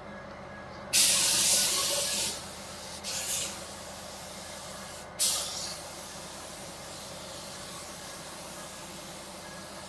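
Pneumatic paint spray gun hissing in three bursts over a steady low hum: a long pass of about a second and a half starting about a second in, then two short ones, the last starting sharply.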